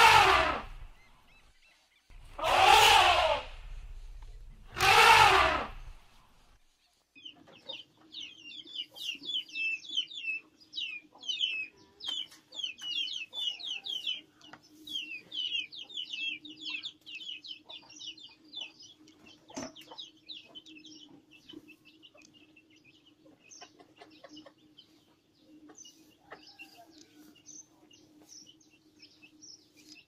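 Elephants trumpeting: three loud, harsh blasts in the first six seconds. Then many small birds chirping rapidly over a steady low hum, busiest early on and thinning toward the end.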